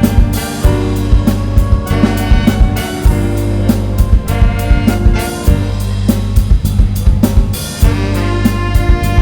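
A band playing film music with drum kit and sustained horn-like tones over a strong bass line, the drums hitting in a steady, quick beat.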